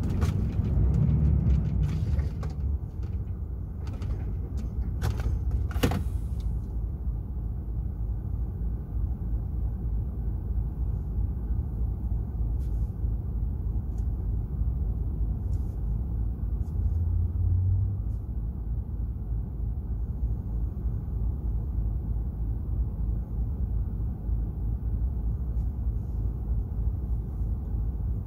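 Steady low rumble of a DAF XF 480 truck's diesel engine and the road, heard inside the cab while driving. A few sharp clicks and knocks come in the first six seconds.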